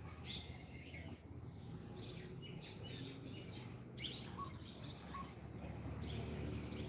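Birds chirping: short high calls repeated every second or so, over a faint low hum.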